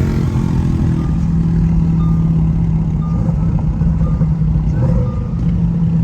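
Twin-turbo Lamborghini cruising, its engine drone and road noise steady inside the cabin. A faint short beep sounds about once a second.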